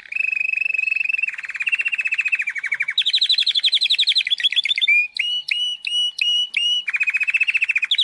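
Songbird singing: fast trilled phrases, the middle one higher in pitch, then a run of about six separate sharp chirps, then another fast trill near the end.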